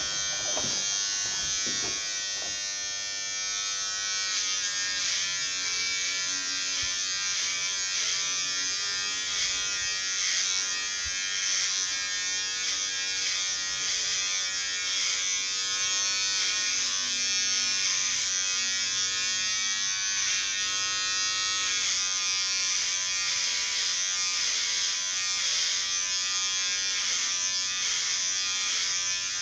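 Electric hair clippers running with a steady buzz, the pitch wavering slightly as they cut hair.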